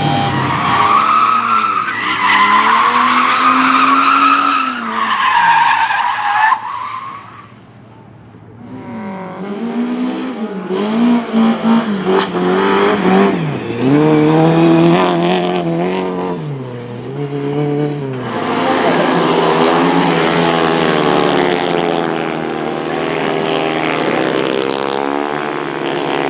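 Race car engines revving hard, the pitch climbing and dropping again and again through gear changes as the cars pass, with some tyre squeal. There is a short lull a little before the middle, and the sound turns denser and noisier in the last third.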